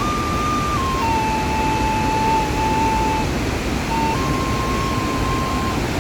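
Steady rush of a large waterfall, with a thin whistled tone running over it that steps between a few pitches, drops lower about a second in and breaks off briefly near the end.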